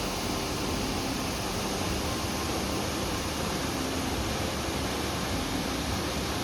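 Ryumon Falls, a 46 m waterfall, making a steady, even rush of falling water without a break.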